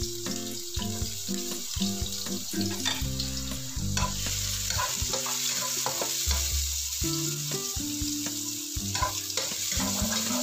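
Minced garlic sizzling as it fries in oil in a nonstick wok, with a spatula stirring and scraping it around the pan in short strokes.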